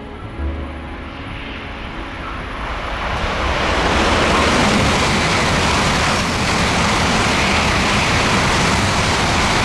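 Tokaido Shinkansen bullet train passing through a station platform at high speed. A rushing roar builds over the first few seconds, then holds loud and steady.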